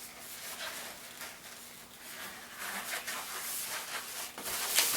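Inflated 260 latex modelling balloon being handled and rubbed between the hands, giving irregular squeaky rubbing and rustling, loudest about four and a half seconds in.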